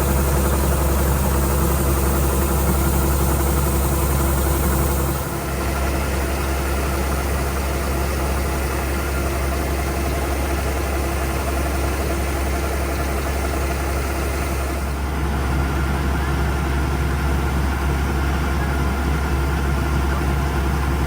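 Combine harvester's engine running steadily with a strong low hum, dipping briefly about five seconds in.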